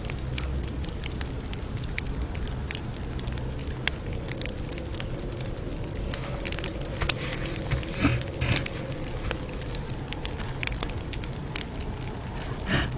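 Campfire crackling: irregular small snaps and pops over a steady low rumble, with a few louder pops about two-thirds of the way in and again near the end.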